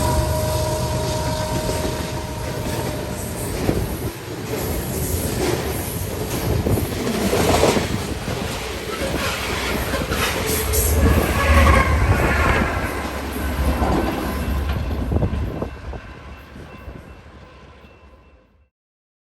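Railroad train rolling by: wheels on rail with knocks over the rail joints and some wheel squeal. It fades out near the end.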